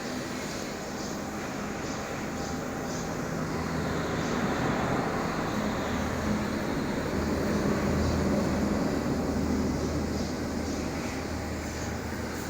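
Toyota 3RZ 2.7-litre inline-four engine running steadily. It grows louder through the middle and eases back near the end.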